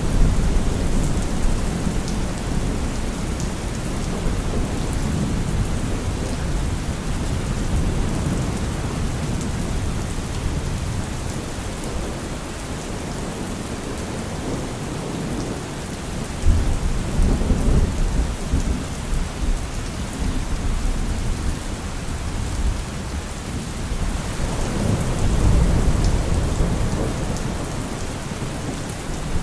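Thunderstorm: steady rain falling, with rolling thunder. One rumble breaks in suddenly a bit past halfway, and another swells up near the end.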